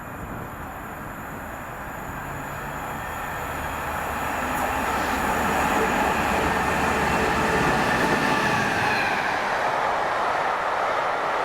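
A train approaching along the track, getting steadily louder over the first five seconds or so, then running past at a steady level.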